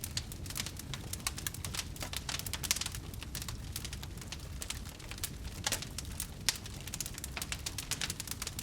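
Wood fire crackling in a fireplace: dense, irregular small pops and snaps over a low steady rumble of the flames.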